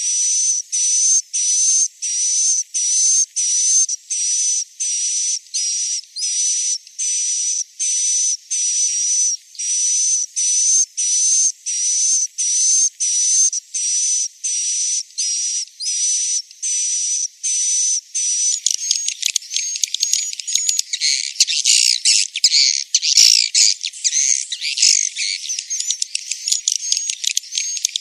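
Swiftlet roosting-call lure track ('suara inap'): a buzzy, high chirp repeated about twice a second. About two-thirds of the way through it gives way to a dense, overlapping twittering of many swiftlet calls. Such calls are played to make young swiftlets settle and roost in a swiftlet house.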